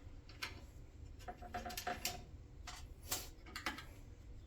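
Scattered light clicks and taps of small metal parts being handled and fitted, about half a dozen, irregularly spaced, one with a short ringing note.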